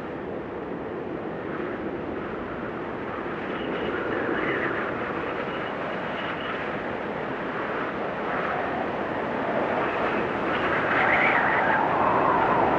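Blizzard wind blowing steadily, with whistling gusts that swell and fade every few seconds, growing louder near the end.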